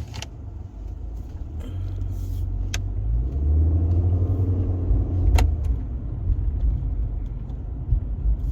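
Car engine and road rumble heard from inside the cabin while driving, building as the car picks up speed about three seconds in. A couple of sharp clicks cut through it.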